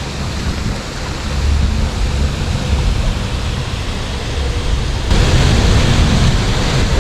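Steady rushing noise of creek water and rain, with a low rumble underneath; it gets louder about five seconds in.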